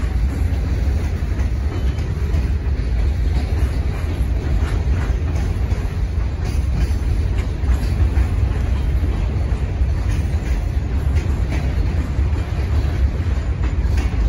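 Freight cars rolling past on the rails, making a steady low rumble with scattered light clicks and knocks from the wheels.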